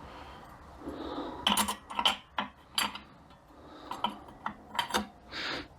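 Steel clutch plates and friction discs clinking and clicking against one another and the drum as the overdrive clutch pack of an A500 (42RE) automatic transmission is stacked. A run of sharp metallic clinks begins about a second and a half in.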